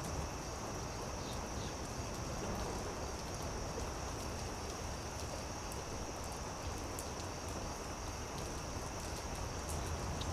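Campfire crackling: scattered sharp snaps and pops over a steady hiss, with a steady high-pitched drone underneath.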